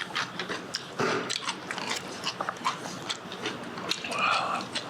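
A person eating close to the microphone: chewing and mouth sounds with many small clicks, and a louder mouth sound about four seconds in.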